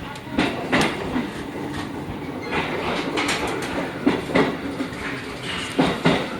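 Wheels of a JR Kyushu 415 series 1500-subseries electric train clicking over rail joints in pairs about a third of a second apart, three pairs in all, over steady running noise, heard from inside the front car.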